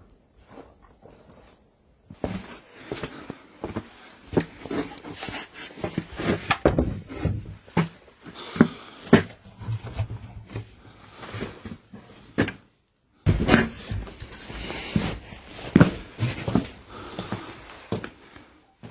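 Irregular knocks, bumps and clatter of things being handled in a small room, starting about two seconds in and breaking off briefly about two-thirds through.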